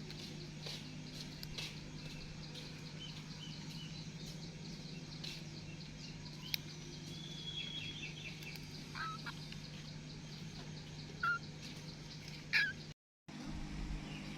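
A few faint, short high-pitched animal chirps spaced a couple of seconds apart over a steady low hum and faint ticking; the sound cuts out briefly near the end.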